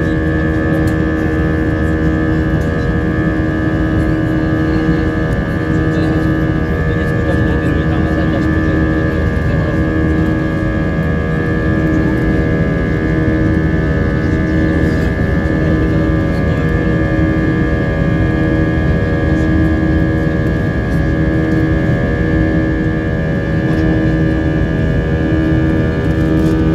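Steady engine hum heard inside the cabin of an Airbus A320-232, whose IAE V2500 turbofans give several steady tones, one of them pulsing on and off every couple of seconds.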